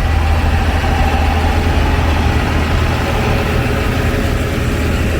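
Antique farm tractor engine running steadily at low speed, a deep even drone with no change in pace.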